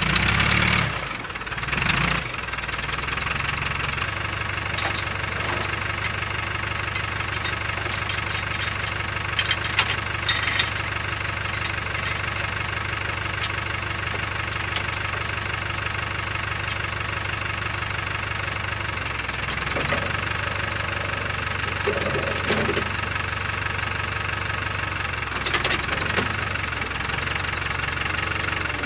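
Farmall H tractor's four-cylinder gasoline engine running steadily at an even speed, with a few small clicks and rattles over it.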